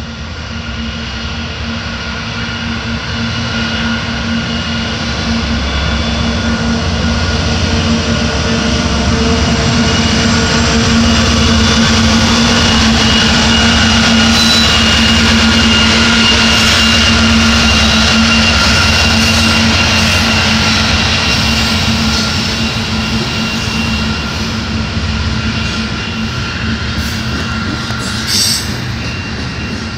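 A GE ET44AC diesel-electric locomotive running as it approaches and passes close by, its engine growing louder and loudest as it goes past. Coal hopper cars then roll by on the rails, with a short knock near the end.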